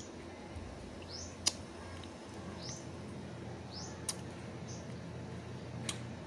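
A small bird chirping: short, high, rising chirps repeating roughly once a second, over a steady low background hum. Three sharp clicks come in between, the loudest about a second and a half in.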